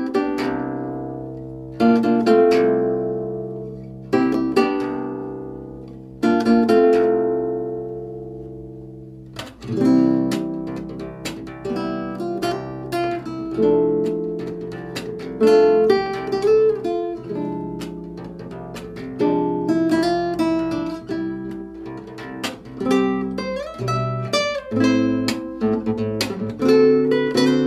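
Background music on acoustic guitar: slow strummed chords left to ring for the first nine seconds or so, then a busier plucked melody.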